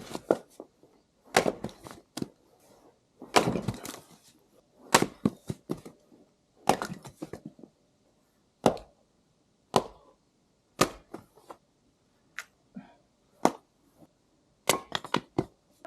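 Axe splitting firewood: a string of sharp wooden cracks and chops about every one to two seconds, some followed by smaller knocks of split pieces falling.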